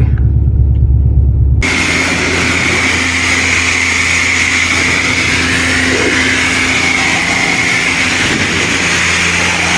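Car engine running with a deep, steady rumble. About one and a half seconds in, the sound switches abruptly to steady road and wind noise from a car on the move, with a high whine that wavers slightly.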